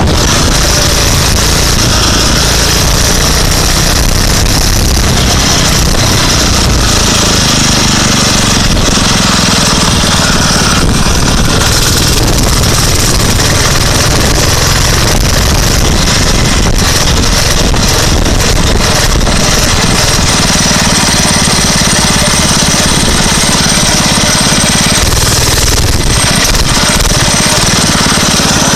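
Small dirt bike engine running loud while the bike is being ridden, its rattly note shifting in pitch as the throttle changes.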